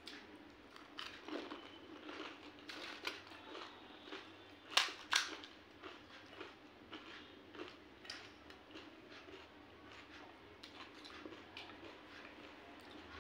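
Pani puri being eaten close to the microphone: crisp puris crunching and chewing, with small irregular clicks throughout and two sharper cracks about five seconds in.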